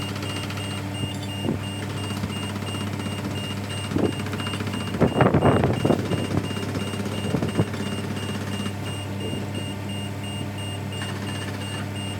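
Heavy machinery engine running steadily, with a regular high warning beep repeating throughout. About four seconds in, a burst of loud clanking and knocking starts, peaking just after five seconds and then thinning out.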